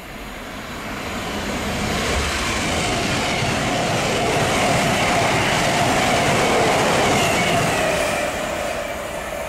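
Express passenger train passing at speed: the rushing noise of wheels on rail builds, is loudest about five to seven seconds in, then fades as the train goes away, with a steady ringing tone running through it.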